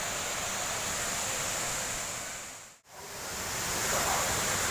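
Waterfall's rushing water, a steady even hiss. It fades out to silence for a moment just past the middle and swells back up.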